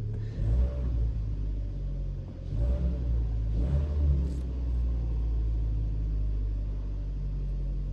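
Kia Sportage 2.0 G4KD inline-four petrol engine idling just after being started following a rebuild. The level swells a few times in the first half, then settles. It runs evenly and quietly, without the earlier knock.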